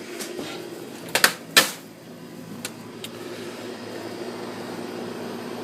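A door's latch and handle clicking sharply twice as the door is opened, followed by a couple of lighter clicks, over a steady background hum.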